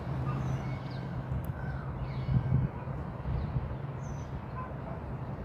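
Faint outdoor bird calls, a few short chirps, over a steady low hum that stops about two and a half seconds in.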